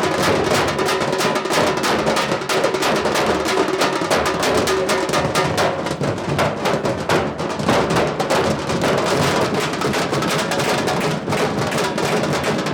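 A street drum troupe beating a fast, dense rhythm on several drums at once, without a break.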